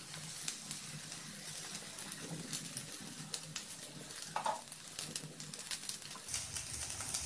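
Vegetables and freshly added cooked rice frying in oil in a kadai, a quiet steady sizzle with scattered light crackles.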